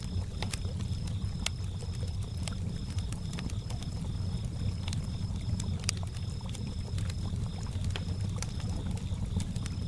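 Campfire crackling in irregular sharp pops over a steady low wash of lake water lapping, with crickets chirping in a fast, even pulse high above.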